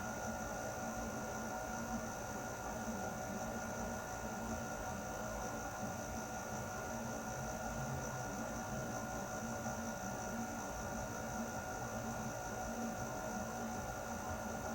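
Air conditioner running steadily: an even rush of air with a steady hum and a faint high whine over it.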